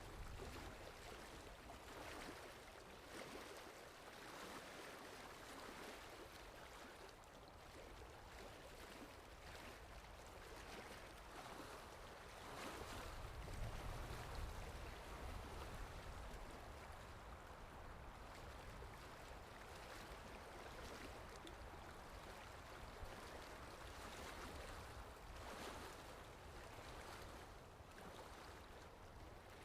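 Faint sea surf washing in and out, a soft rushing noise that swells and ebbs every few seconds, with a deeper, louder surge about 13 seconds in.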